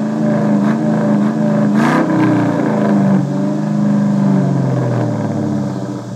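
2004 Mustang GT's 4.6-litre V8 revved and held up with a quick blip about two seconds in, then falling back toward idle near the end, heard through an off-road H-pipe with the catalytic converters cut off and the stock mufflers.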